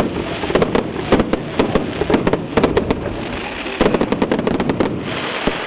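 Fireworks going off in rapid volleys of sharp bangs and crackles, several a second, with short lulls between the clusters.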